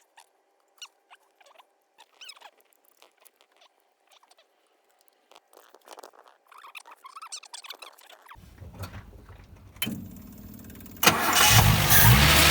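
Nissan Gloria 230's engine being started after its distributor was reassembled with a new cap: a few faint clicks and handling noises, then the starter cranking from about eight seconds in, and the engine catching a little after eleven seconds and running loudly.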